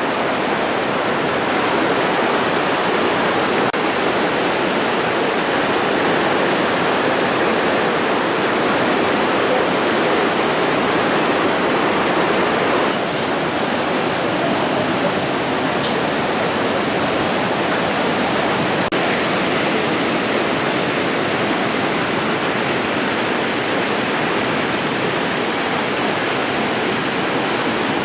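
Steady rushing roar of heavy water pouring down the Iguazu Falls. The top of the sound dulls a little about halfway through and then brightens again.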